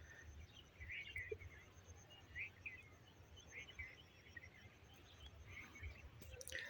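Near silence outdoors, with faint short bird chirps about once a second.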